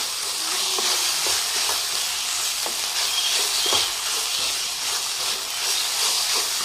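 Minced chicken and onion masala sizzling in a hot pan of oil while a spoon stirs it, with the steady hiss of frying broken by irregular scrapes and taps of the spoon against the steel pan.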